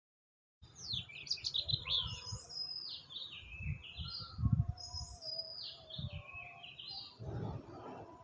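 A songbird singing: a flurry of high notes, then two phrases of quick notes that step down in pitch and climb back up, with dull low thumps in between.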